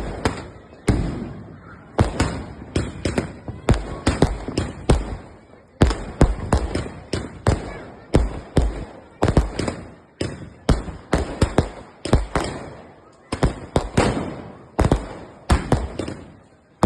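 Fireworks going off in a long string of sharp bangs, about two a second with a few brief pauses, each bang trailing off quickly.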